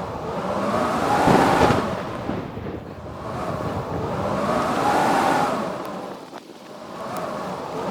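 Howling blizzard wind in gusts that swell and fade about every three and a half seconds, each gust carrying a whistling tone that rises and falls in pitch.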